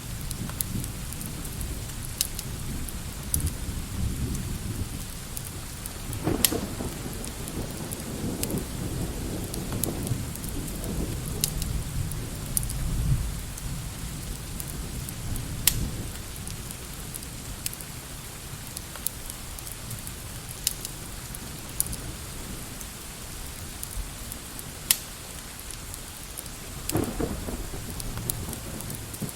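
Steady rain with low rolls of thunder, heaviest about 6 to 13 seconds in and again near the end, and scattered sharp crackles.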